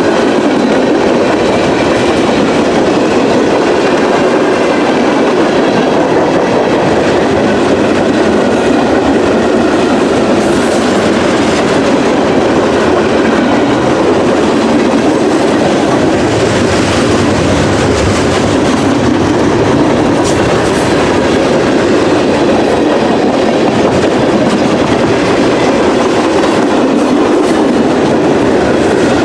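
Freight train cars rolling past, steady and loud, the wheels clacking over the rail joints, with a few brief sharp clicks and squeals now and then.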